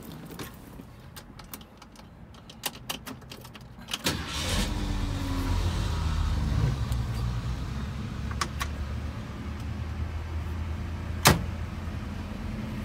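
A 1966 Ford Mustang's engine starts about four seconds in, after a few light clicks, and settles into a steady idle. A single sharp click comes near the end.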